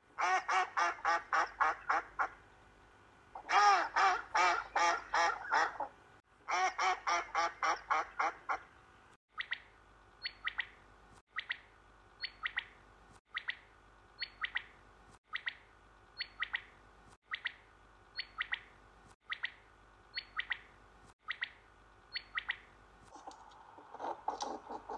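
Farm animal calls: three rapid runs of loud pitched calls, about six a second. These are followed by a short, sharp call repeated about once a second.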